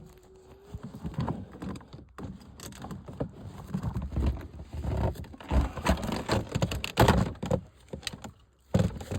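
Irregular knocks, clicks and clatter of plumbing fittings and pipe being handled and fitted together by hand, busiest and loudest in the second half.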